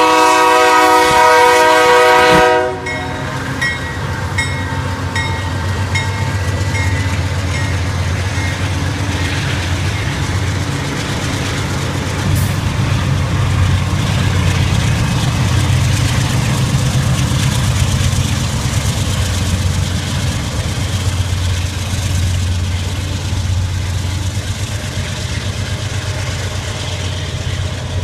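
Diesel freight locomotive horn sounding a chord that cuts off about two and a half seconds in, followed by the locomotives' diesel engines rumbling steadily as the freight train rolls past with rail and wheel noise.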